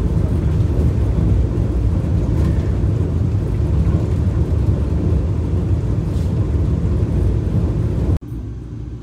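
Steady, loud rumble and rushing noise of the Vande Bharat Express train running along the track. It drops suddenly to a quieter rumble near the end.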